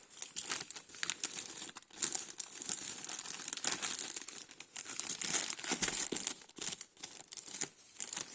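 Plastic packaging crinkling and rustling in the hands with irregular crackles, and some tearing, as a delivery package is opened.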